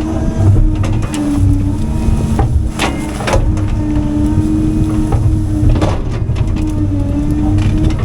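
CAT 310 Next Gen excavator's engine and hydraulics running under load with a wavering hum, while wood cracks and snaps several times as brush and trees are broken, loudest about three seconds in.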